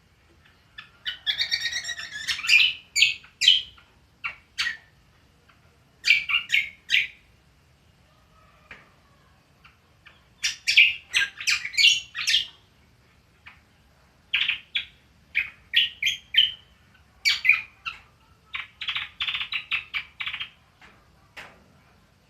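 Cucak kombo songbird twittering in quick bursts of rapid chirps and sharp notes, several phrases of one to three seconds with short pauses between them.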